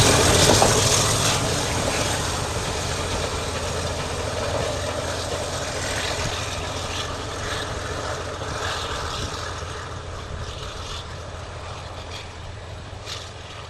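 Steam train running on, its rumble fading steadily as it moves away.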